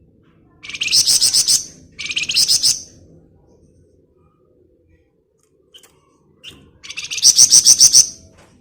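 A flamboyan songbird singing its rapid 'ngebren' trill: three high-pitched bursts of fast repeated notes, about a second in, about two seconds in, and a longer one near the end, with a couple of short single chips between them.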